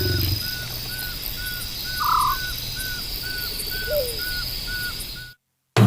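Evening bush ambience: a steady high insect drone with a short call repeating about three times a second, and one louder call about two seconds in. The sound cuts off to silence just before the end.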